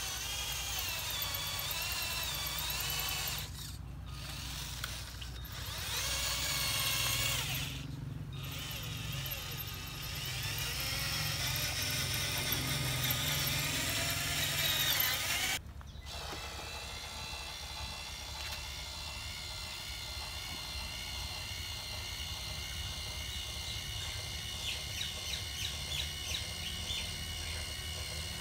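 Small electric motors of an RC dump truck whining, their pitch wavering as speed changes, broken by a few sudden cuts, with a run of small clicks near the end.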